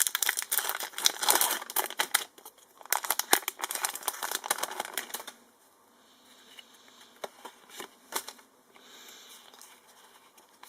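Foil wrapper of a Pokémon trading card booster pack crinkling and tearing as it is opened, dense crackle for about five seconds with a brief pause a little after two seconds, then dropping to occasional faint rustles and clicks.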